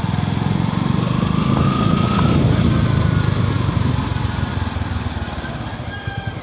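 Yamaha FZi motorcycle engine running, getting louder about a second in and then easing off toward the end, with no squeal from the freshly adjusted rear drum brake.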